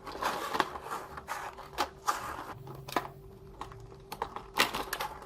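Toy packaging being opened by hand: crinkling and rustling with a string of sharp clicks and snaps.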